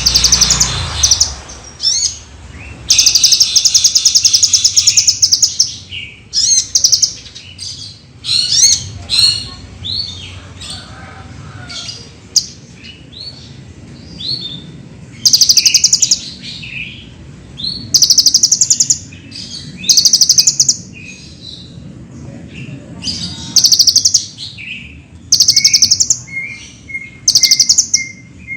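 A kolibri ninja sunbird singing: loud, rapid high-pitched trills lasting a second or two, alternating with short chirped notes and brief pauses.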